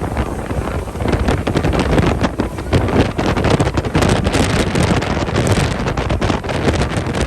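Heavy wind buffeting the microphone aboard a boat running at speed.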